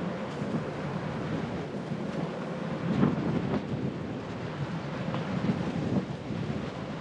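Bicycle ride noise: a steady low rumble of tyres on the path and air rushing over the microphone, with scattered light knocks and rattles, the strongest about three seconds in.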